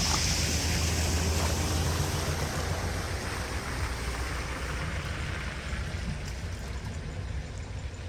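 Floodwater rushing and splashing into a storm drain, a steady wash of water with a low rumble under it in the first half, growing gradually quieter.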